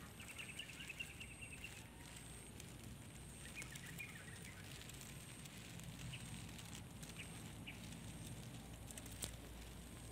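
Faint outdoor ambience: a small bird's quick chattering trill near the start, a shorter one a few seconds in, then a few single chirps, over a steady low rumble.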